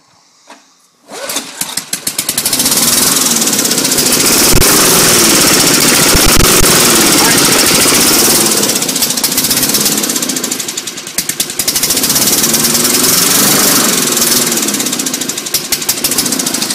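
Old lawn mower's small engine starting about a second in and then running loudly, its speed rising and falling unevenly rather than holding steady.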